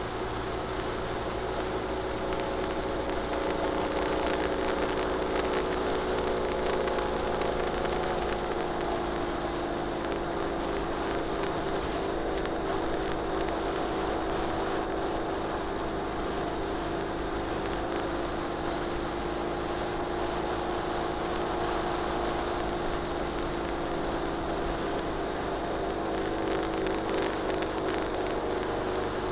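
Ural Retro sidecar motorcycle's flat-twin engine running at a steady cruise, under a constant hiss of wind and road noise.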